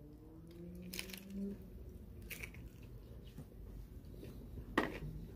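A person biting into a crisp fried-corn tostada topped with seafood and chewing it, with a few sharp crunches, the loudest near the end. A faint low hum runs through the first second and a half.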